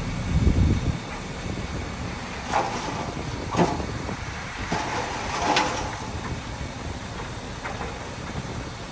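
Heavy earthmoving machinery running with a steady low engine rumble, loudest in the first second. Several short metallic squeaks or clanks come through it a few seconds in.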